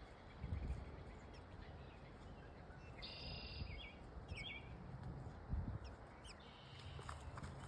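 A few short bird chirps about three to four seconds in, over a steady low rumble.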